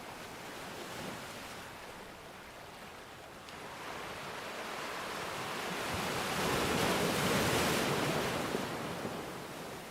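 Ocean waves washing ashore. A rush of surf noise swells over a few seconds, peaks about seven seconds in, then ebbs away.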